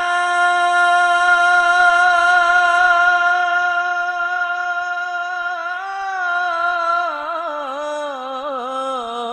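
A solo singer holds one long steady note of an Arabic devotional sholawat for about five seconds, then winds into an ornamented melismatic run of quick pitch turns near the end.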